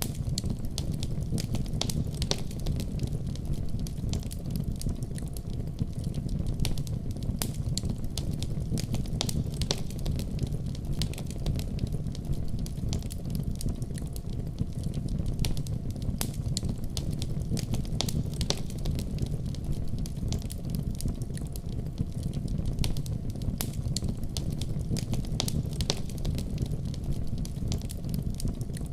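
Wood fire burning in a fireplace, crackling with frequent small pops and snaps over a steady low rumble.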